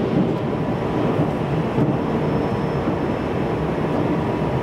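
Steady running noise of a JR Central 373 series electric train heard from inside the passenger car: wheels rolling on the rails at speed.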